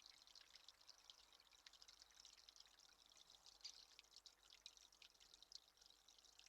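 Faint, irregular dripping and trickling of water, many small drips close together.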